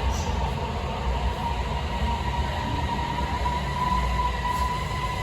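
Beijing Subway Line 8 train running: a steady low rumble with a steady high whine over it.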